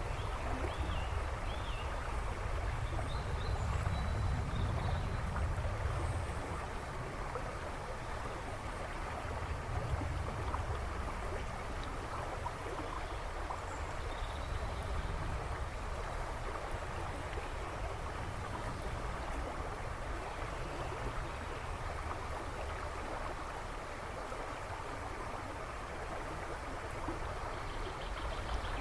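A river rushing and babbling steadily, with a deep rumble under the splashing water. A few faint bird chirps come through in the background, mostly in the first few seconds.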